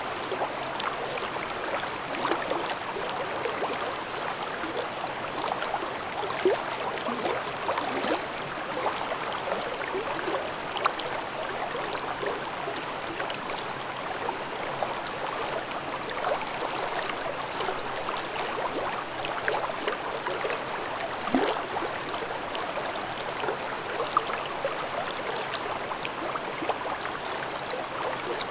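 Mountain stream babbling over rocks: a steady rush of flowing water with small splashes and gurgles throughout.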